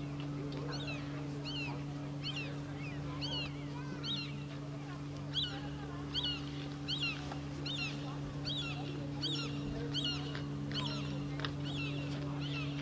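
A bird calling over and over, short high arching calls about one and a half a second, over a steady low hum.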